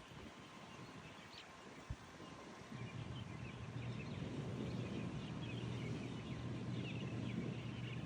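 Birds chirping faintly in short scattered calls; about three seconds in, a steady low rumble sets in underneath and stays.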